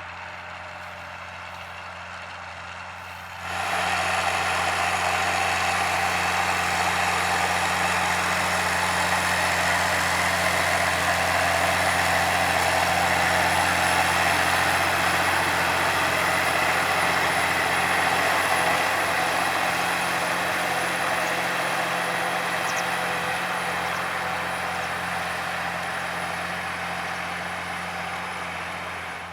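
Large farm tractor's diesel engine working in the field: a steady drone over a constant low hum. It jumps suddenly louder about three seconds in, is loudest midway and slowly fades toward the end.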